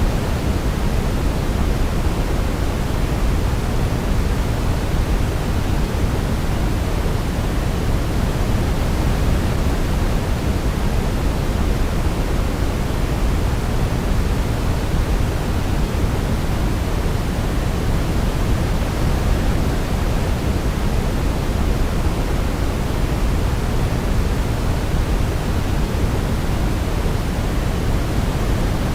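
Steady white-noise sleep track: an even, unchanging hiss weighted toward the low end, like pink noise, with no melody heard.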